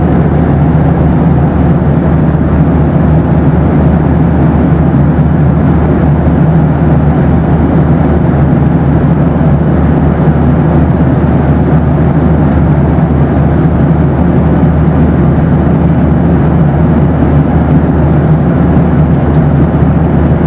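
Boeing 737 cabin noise in flight: a steady, deep rush of engine and airflow noise, even throughout with no changes.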